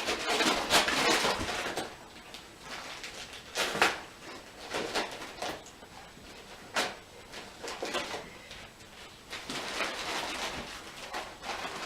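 A small dog tearing and rustling a present's paper and cardboard packaging with its teeth, in irregular bursts of ripping and crinkling.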